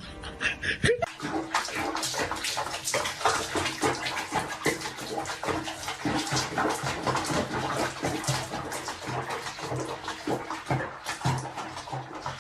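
Water splashing and sloshing, as in a tub or basin, with many short splashes close together.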